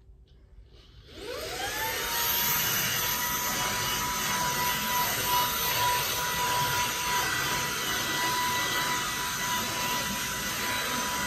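Vacuum cleaner switched on about a second in, its motor winding up in pitch to a steady whine over a loud rush of air, then running steadily.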